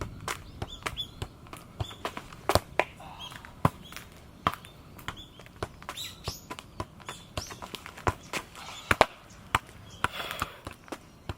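A freestyle football being juggled: irregular taps and thuds of the ball against feet and legs, a few loud touches among many lighter ones.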